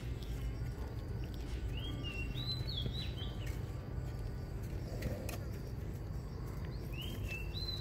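A bird sings a short phrase of rising and falling whistled notes twice, about two seconds in and again near the end, over a steady low rumble with faint irregular clicks.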